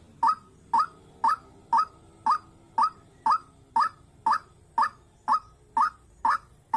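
White-breasted waterhen (dahuk) calling: a single short note repeated evenly about twice a second.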